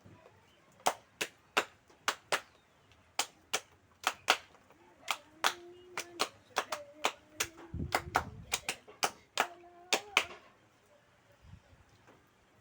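A series of sharp claps or slaps, about two dozen at an irregular pace over some nine seconds. A few short, low held tones come in between them.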